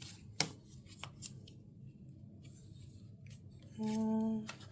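Paper and craft supplies being handled at a desk, with a sharp click about half a second in and a few fainter clicks after it. Near the end comes a hummed "hmm" from the crafter.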